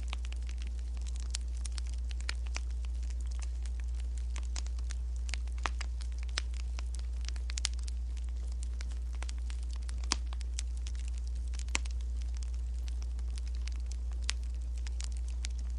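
Wood fire crackling, with irregular sharp pops and snaps of varying loudness over a steady low hum.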